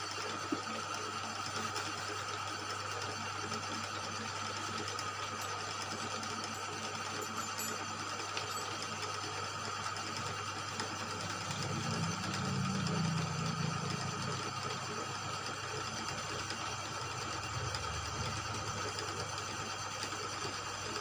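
Motor-driven machine running steadily as it works a motorcycle cylinder block, a constant whine with a low hum underneath, and a heavier rumble about halfway through.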